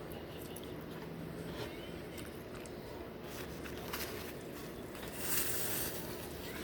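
Eating sounds: quiet chewing with small scattered clicks over a steady low hum, and a brief hissing rustle about five seconds in.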